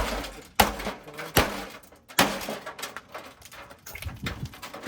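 Blows smashing the inner parts of a gutted Hamilton Beach microwave oven: four sharp strikes in quick succession, each followed by a clatter of loose metal and plastic, then a few lighter knocks near the end.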